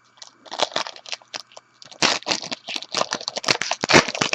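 Plastic foil wrapper of a trading card pack crinkling and tearing as it is opened by hand: a few sharp crackles at first, then dense crackling from about halfway through.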